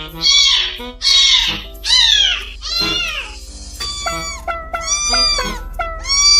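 A cat meowing over and over, short rising-and-falling calls about one or two a second, over background music.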